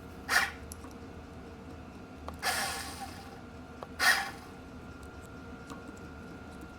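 Grease gun squirting grease into a bike hub's small wheel bearings in three short spluttering shots, the middle one longer.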